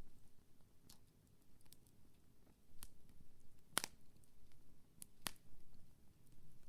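Wood campfire burning: a low steady rumble with scattered sharp crackles and pops. The loudest pop comes just past the middle, and two more follow close together about a second and a half later.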